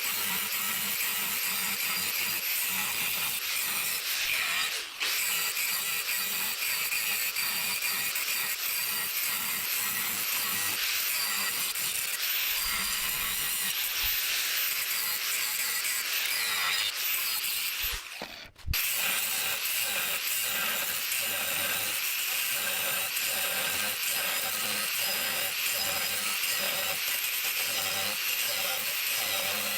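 Steel being worked with a cutting or abrading tool, heard as repeated rasping strokes, briefly broken twice.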